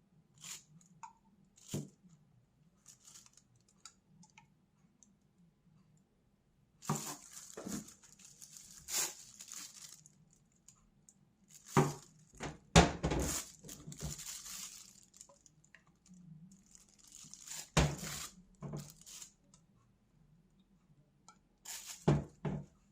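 Handling noises: scattered clicks, knocks and rustles of bottles and containers being moved about and set down, loudest in a cluster around the middle.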